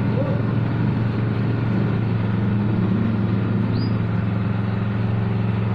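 Yamaha RX-King's single-cylinder two-stroke engine running through its exhaust at a steady, unchanging pitch.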